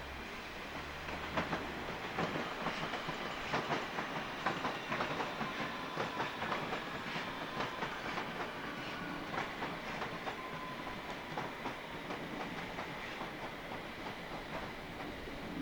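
A train running past on the track, its wheels clicking over rail joints in a long irregular run of clacks, with a faint steady whine underneath.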